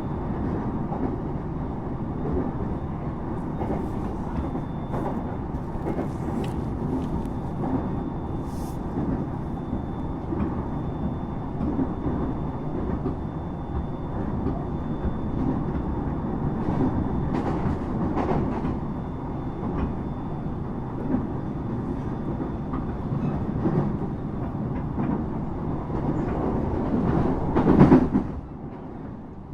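Inside a moving passenger train: a steady running rumble with scattered clicks and rattles, and a faint steady high tone through the first two-thirds. Near the end the sound swells loudest, then drops noticeably quieter.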